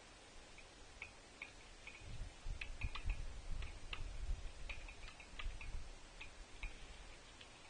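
Birds at a winter feeder: a string of quick, irregular ticks and taps, with low thumps in the middle.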